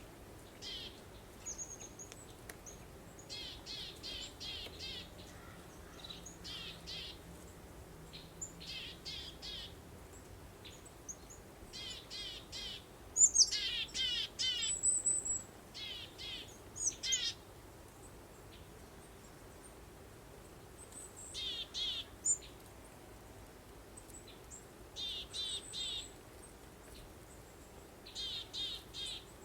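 Songbirds singing in short bouts of quick, rapidly repeated high notes, broken by brief pauses, over a faint steady background hiss. The loudest phrase comes a little before the middle.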